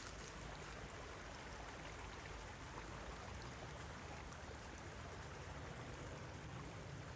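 Running creek water, a steady faint rush with a few light ticks.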